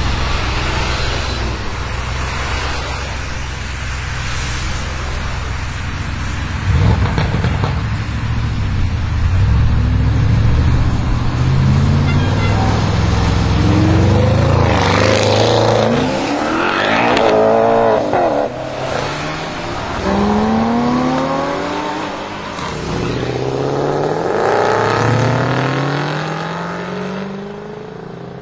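Stage 2-tuned Audi RS6 Avant C8's twin-turbo V8 through a Capristo exhaust with the particulate filter deleted. It runs at a steady low note, then gets suddenly louder about seven seconds in. It then revs up in several rising sweeps of pitch through the second half.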